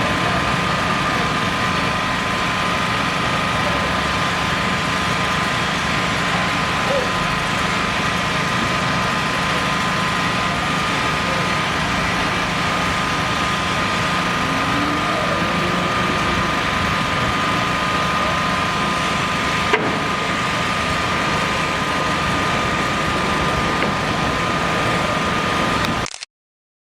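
Steady mechanical hum with a constant high whine, unchanging throughout, cutting out abruptly for about a second near the end.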